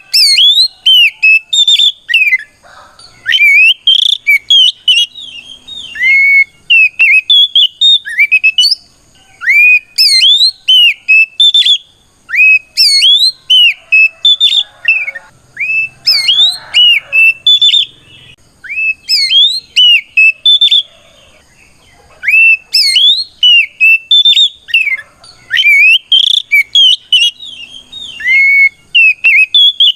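Oriental magpie-robin singing loud, rapid bursts of whistled notes that sweep up and down, broken by short pauses. This is the loud, open fighting song that calls out rivals.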